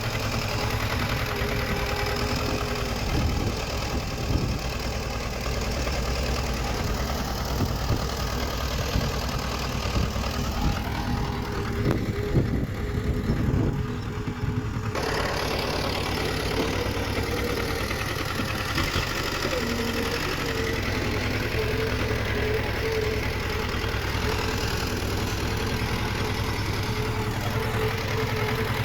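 Diesel engine of heavy earthmoving machinery running steadily, with a few short knocks and clanks about three seconds in and again around the middle. The sound changes abruptly about halfway through.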